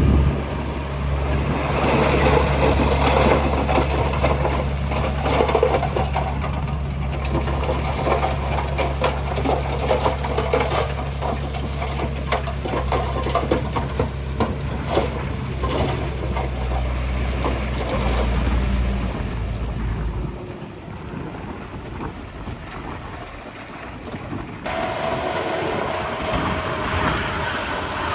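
Heavy diesel earthmoving machinery running, a steady low engine drone with loose clattering and knocking over it. About twenty seconds in, the engine drone drops away. Near the end, a different machine sound with a steady tone comes in abruptly.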